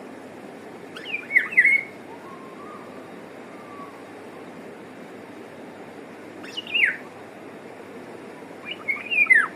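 Eurasian golden oriole calling: three short phrases of quick falling notes, about a second in, around the middle-late part and again near the end, over a steady hiss.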